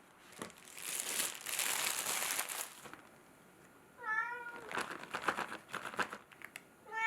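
A crinkling rustle for about two seconds, then a domestic cat meows once, about four seconds in, followed by a few light clicks and rustles.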